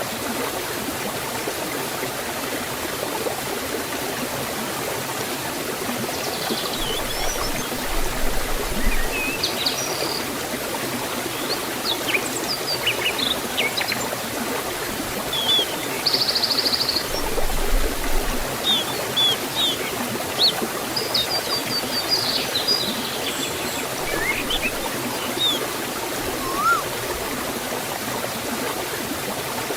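Water flowing steadily in a forest stream, a constant even rush. Birds chirp and trill on and off over it from a few seconds in until near the end, with a brief buzzy trill about halfway through and a rising whistle near the end.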